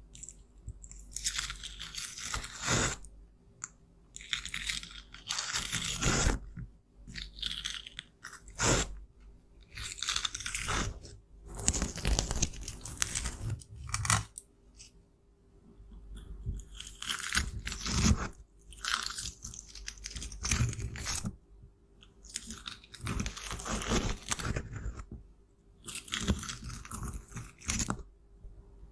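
Makeup being crushed and scraped, a gritty crunching in irregular bursts of a second or two with short pauses between.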